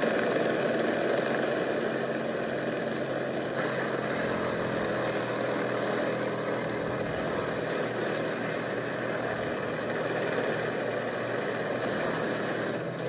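Airplane engine droning steadily with rushing wind noise, as in a film's in-flight action scene.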